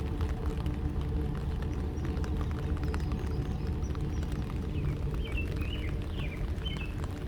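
Steady low engine rumble with a few fixed pitches in it, with small birds chirping in short phrases in the second half and scattered light ticks.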